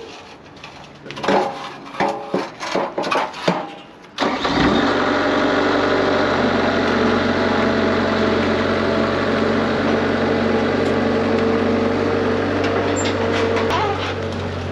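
A few irregular knocks and clanks, then about four seconds in an engine starts and settles into a steady idle.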